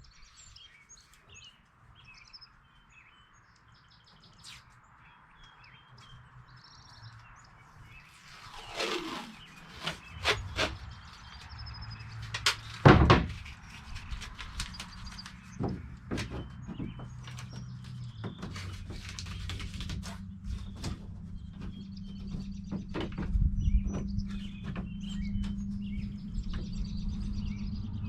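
Birds chirping in the background, with scattered knocks and clicks of handling, a louder scraping sweep about nine seconds in and a sharp knock about thirteen seconds in. A low steady hum comes in from about twelve seconds and carries on.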